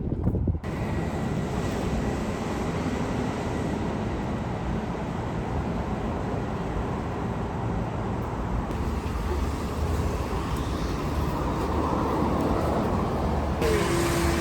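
Steady rumbling vehicle or traffic noise, changing abruptly a few times.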